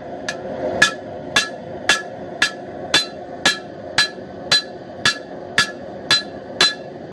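Forging hammer striking hot steel on an anvil in a steady rhythm of about two blows a second, each blow with a short metallic ring, driving a cut through the bar to part off the knife blank.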